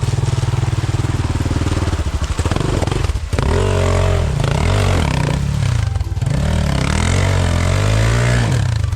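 Pit bike's single-cylinder engine running with a steady pulse at low revs, then revved hard again and again from about three seconds in, its pitch rising and falling with the throttle.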